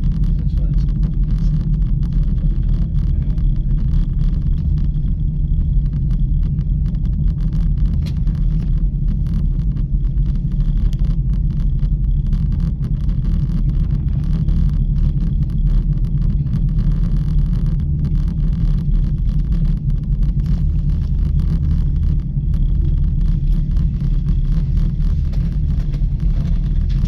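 Steady low rumble of a ropeway gondola cabin running along its cable, heard from inside the cabin.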